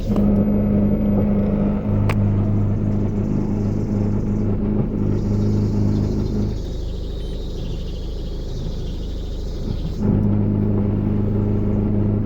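Peugeot Partner 1.9 diesel four-cylinder engine running, with a steady low drone over it. The drone eases off around the middle and comes back louder near the end, the kind of noise and rough running the owner is asking about.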